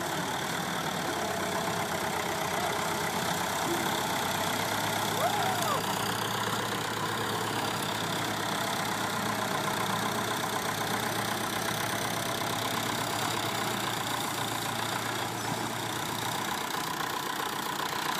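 Heavy vehicle engine running steadily in the mud. A low hum is added from about four seconds in until about sixteen seconds.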